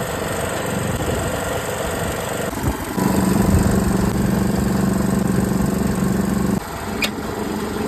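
A machine motor running, with abrupt changes in its sound; a steady hum comes in about three seconds in and cuts off suddenly at about six and a half seconds.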